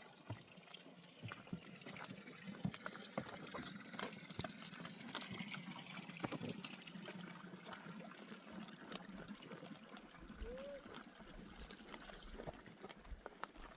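Faint trickling water, with many small clicks and knocks throughout.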